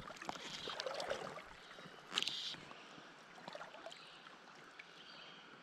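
Faint river water moving and trickling, with a short rush of noise about two seconds in.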